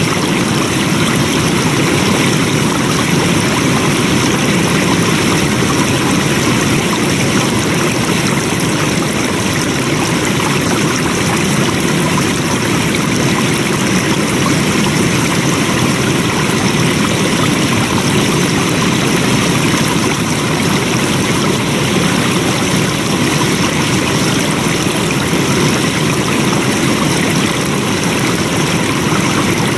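Flowing stream water rushing steadily and evenly, with no breaks or changes.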